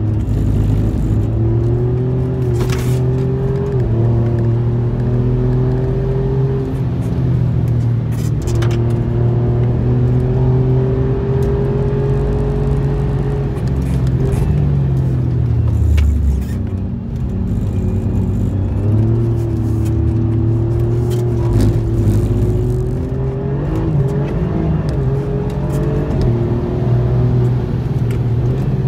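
Alfa Romeo Giulia Quadrifoglio's twin-turbo V6 heard from inside the cabin, pulling hard with its note rising and stepping at gear changes. About fourteen seconds in the pitch falls away as the driver lifts and slows, then climbs again.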